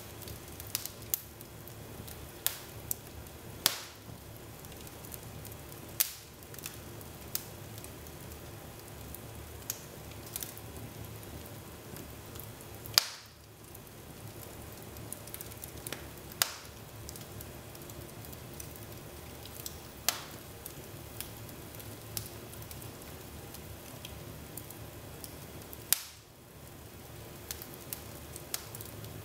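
Wood fire burning in a fireplace, crackling with irregular sharp pops and snaps over a low steady hiss, the loudest pop about halfway through.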